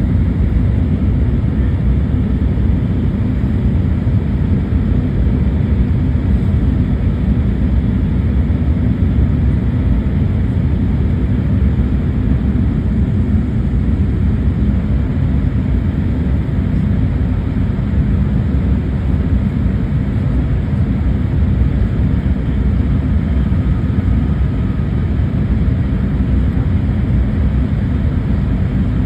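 Airliner cabin noise in flight: a steady, loud, low rumble of jet engines and airflow heard from inside the cabin.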